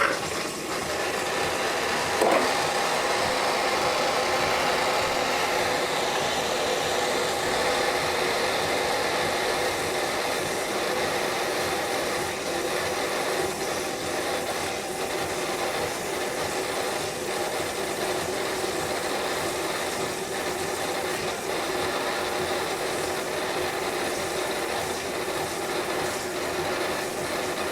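De'Longhi Eletta Cappuccino bean-to-cup machine frothing milk through its milk carafe on the maximum froth setting: a steady hiss over the hum of the machine, with a small click about two seconds in.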